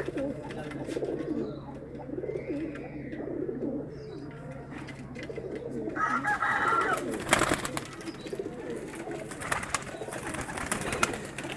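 Domestic pigeons cooing over and over, several birds overlapping, with scattered sharp clicks and knocks from the loft.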